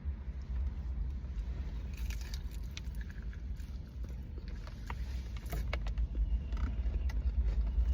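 Someone biting into and eating spicy fried chicken wings, with scattered small clicks and crackles of handling the food, over a steady low rumble.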